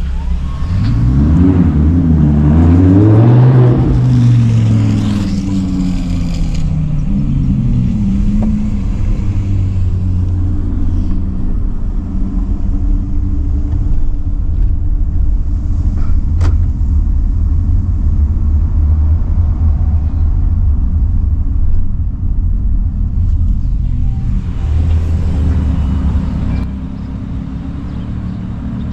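Sports car engine revving, rising in pitch over the first few seconds, then running on with a steady low rumble and a shorter rise a few seconds later. A single sharp click comes about halfway through.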